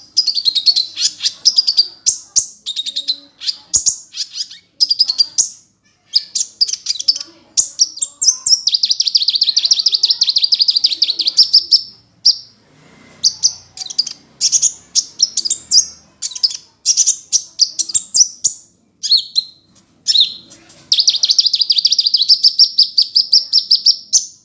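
Sunbird singing steadily: quick, high, sharp chirping phrases broken by long rapid trills, two of them lasting several seconds each.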